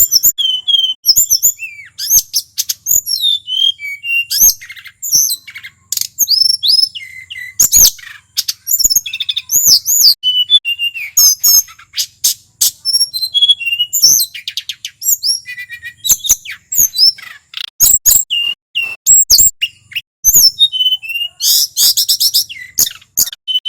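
Male tledekan gunung singing continuously in full, varied song: a rapid run of high chirps, sweeping whistles and short trills with brief gaps between phrases.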